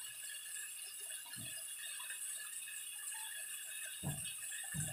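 Chopped okra in masala frying in a wok on a gas stove, a faint steady sizzle, with three soft knocks about a second in and near the end.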